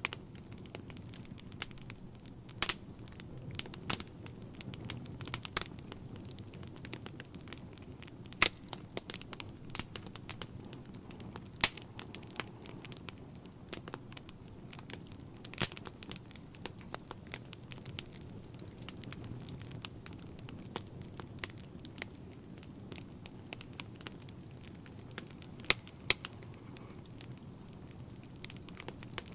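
Wood fire burning in a fireplace: irregular crackles and sharp pops over a soft, steady low rumble of the flames.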